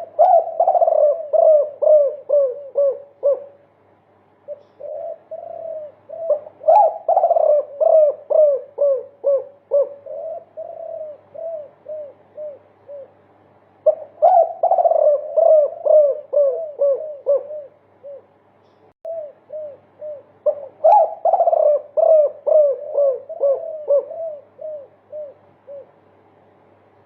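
Spotted dove (derkuku) cooing in long 'multi-kuk' runs of many short, repeated coo notes, about three a second, in four bouts with brief pauses between them.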